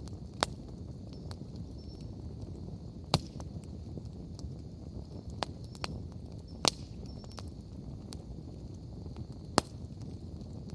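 Wood bonfire burning with a low steady rumble and sharp crackles and pops, the loudest four spread about three seconds apart, with smaller crackles in between.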